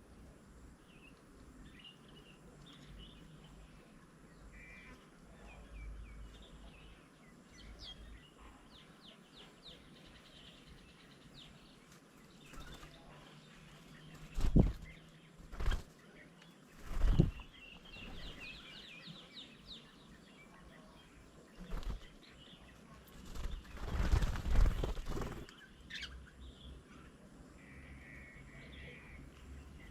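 Birds at a feeding table: quick series of short chirping calls, with several loud bursts of wing flapping in the middle and a longer flurry of flapping near the end.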